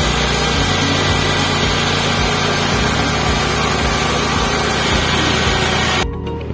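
Mahkota MDM 9-21 flour milling machine running, a loud steady mechanical noise with a low hum, cutting off suddenly about six seconds in.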